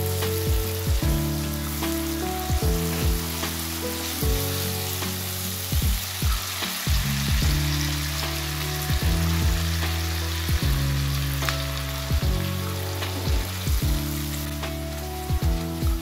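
Onion, tomato and chilli sauce sizzling in a non-stick wok while being stirred with a spatula, over background music with a steady low beat.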